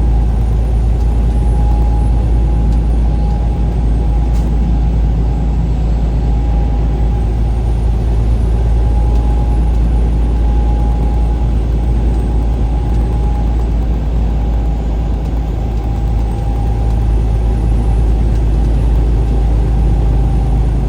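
Steady engine and road noise of a vehicle driving on a highway, a heavy low rumble with a steady whine above it.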